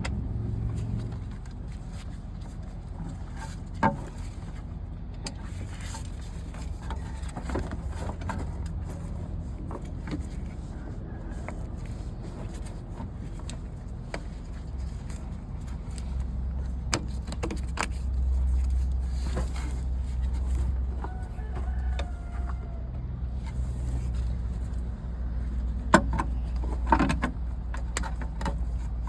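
Low, steady rumble of a vehicle engine running, louder in the second half, under scattered clicks and knocks of hand tools as a ratchet releases the belt tensioner and the fan belt is worked onto the pulleys.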